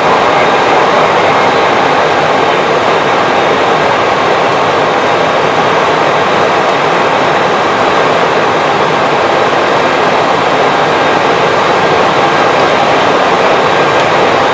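Steady flight-deck noise inside a SWISS Airbus A320: an even rush of air with faint steady tones running underneath, unchanging throughout.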